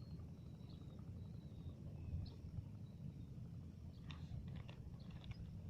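Quiet outdoor background: a steady low rumble with faint short high chirps, and a quick run of small clicks about four to five seconds in.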